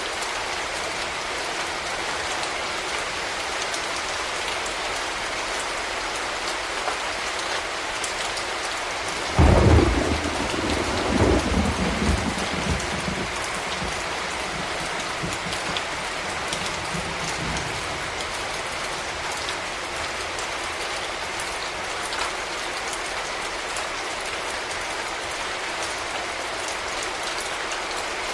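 Steady rain falling. About nine seconds in, a sudden thunderclap breaks into a second peak and then a low rumble that fades away over several seconds.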